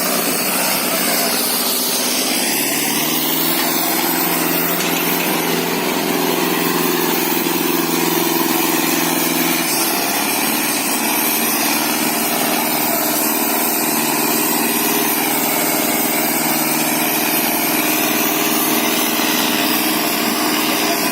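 Sonalika DI 750 tractor's diesel engine running hard. Its revs climb about two seconds in, hold, then drop back about ten seconds in and run on steadily.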